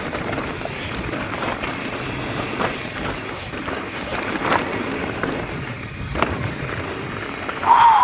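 Mountain bike descending a dirt trail: steady rattle and rumble of tyres and bike over rough ground, with sharp knocks from roots and rocks every second or two.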